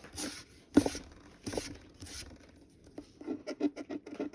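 Scratching the coating off a lottery scratch-off ticket: four separate scrapes, then a quick run of short scrapes from about three seconds in.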